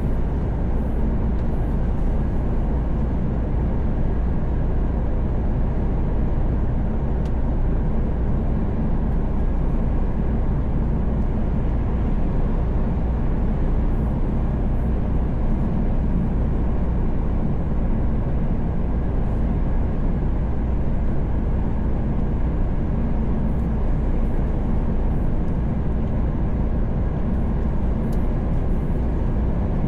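Steady drone of a Mercedes-Benz Actros truck cruising on the motorway, heard inside the cab: a low engine hum under even tyre and road noise.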